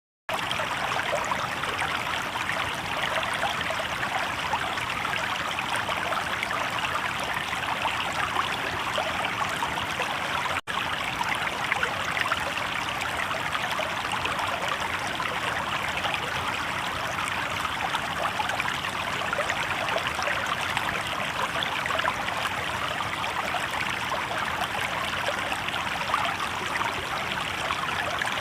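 Shallow river water babbling and trickling over stones, a steady rushing sound. It cuts out for an instant about ten seconds in.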